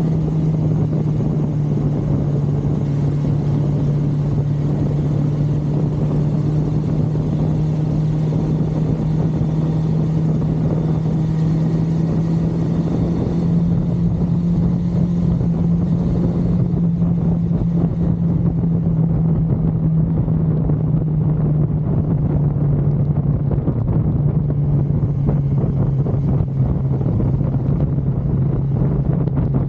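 1982 Suzuki GS550L inline-four motorcycle engine running at a steady road cruise, with wind noise over it. The engine note steps up slightly about halfway through, then eases gradually lower in pitch over the last several seconds as the bike slows.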